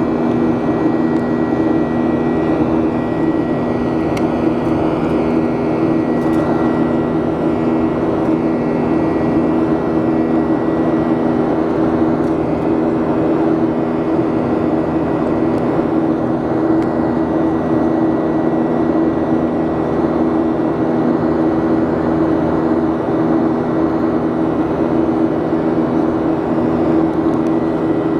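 Airliner jet engines heard from inside the passenger cabin: a loud, steady drone with a few steady tones that holds unchanged throughout.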